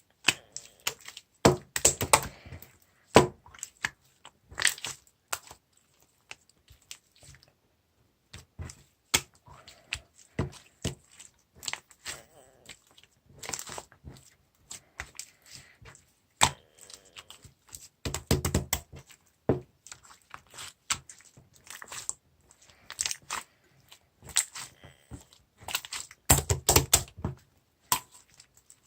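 Slime being squeezed and stretched by hand, giving irregular sticky clicks, pops and crackles. The popping comes in denser runs a couple of seconds in, past halfway and near the end.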